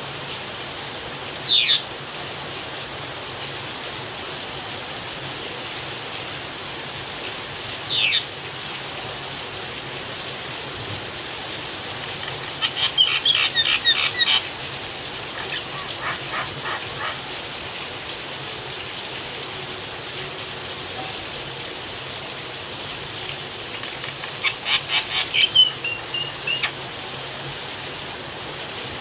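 Javan myna calling over the steady hiss of falling rain: sharp, high calls sweeping downward twice early on, then two fast runs of repeated chattering notes, about halfway through and again near the end.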